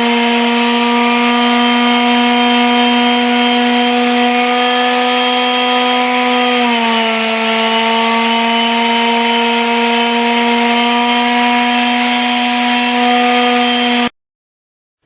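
Handheld electric drill running steadily with a whine while drilling small holes freehand in thin cherry wood. Its pitch dips slightly about seven seconds in, and it cuts off abruptly about a second before the end.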